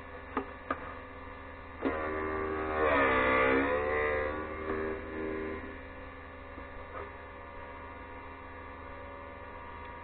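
Electric motor of a bench drill-bit grinder running with a steady hum while a drill is sharpened. A few clicks come in the first two seconds. About three seconds in there is a louder grinding passage in which the pitch sags and recovers as the bit is worked against the wheel.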